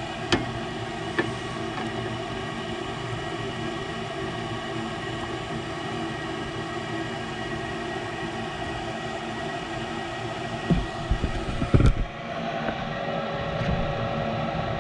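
Steady hum of a gas furnace's motor running, with several fixed tones. A couple of light clicks near the start, and handling knocks and thumps about eleven to twelve seconds in.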